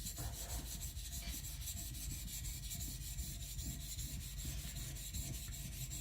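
Kiridashi blade rubbed back and forth on a wet whetstone under firm pressure: a steady, gritty scraping.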